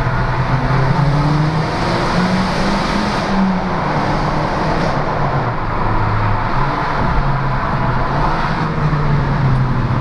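Car engine and road noise heard from inside a moving car, the engine hum rising and falling in pitch a few times as speed changes.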